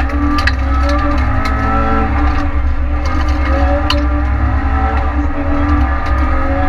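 Renault Clio rally car's engine heard from inside the cabin, revving up and easing off several times as it is driven hard on a tarmac stage, over a heavy low rumble, with a few short knocks and rattles.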